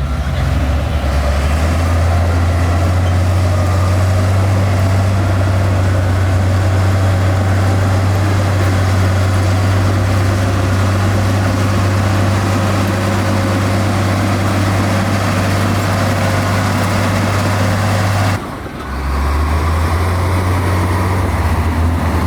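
Diesel engine of heavy earthmoving machinery running steadily as a low drone. It breaks off briefly about eighteen seconds in, then carries on at a slightly different pitch.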